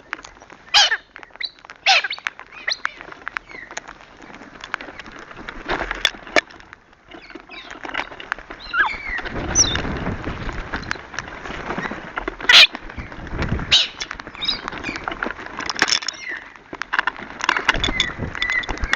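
Australian parrots at a bird feeder giving harsh, screechy squawks and chatter throughout, mixed with scattered sharp clicks and knocks.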